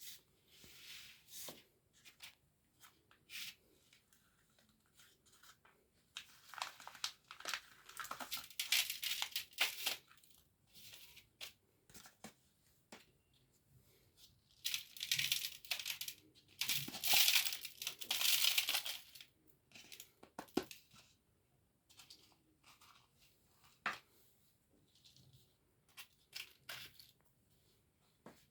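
Dry, brittle chalky material being crushed and crumbled: scattered sharp crackles and snaps, with two longer stretches of dense, gritty crunching, one a few seconds in and another about halfway through.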